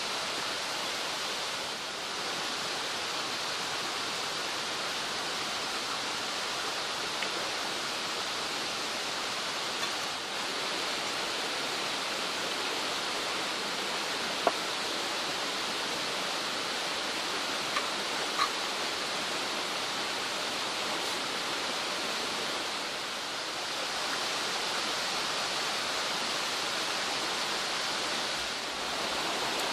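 A mountain stream rushing steadily. A few short, sharp clicks rise above it about halfway through.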